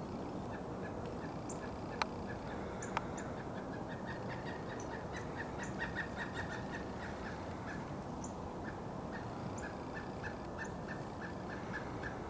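Pileated woodpecker calling: a long run of short, evenly spaced notes, several a second, strongest midway, over steady background noise. Two sharp clicks about two and three seconds in.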